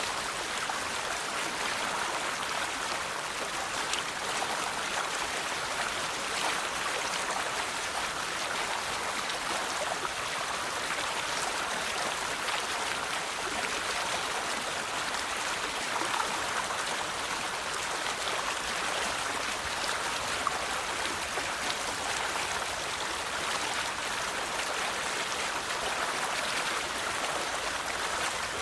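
River water flowing over rocks: a steady rushing and babbling with small splashes throughout.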